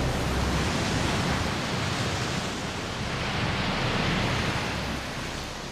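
Steady rushing noise that swells and eases, dropping off a little near the end.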